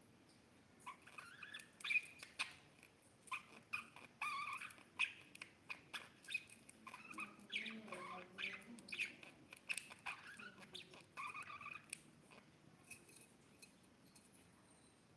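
Budgies chirping in quick bursts of short calls mixed with sharp clicks, falling quiet near the end.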